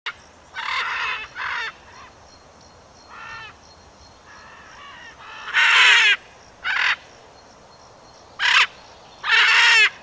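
Harsh bird squawks: a run of separate loud calls of varying length, the longest and loudest about halfway through and again near the end.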